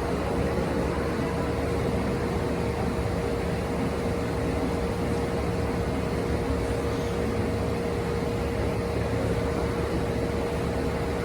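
Steady mechanical hum with a constant whooshing noise, like ventilation or a running machine, unchanging throughout.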